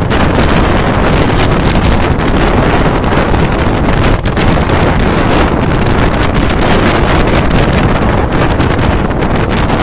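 Wind buffeting the microphone at the open door of a moving passenger train, over the continuous running noise of the train on the track.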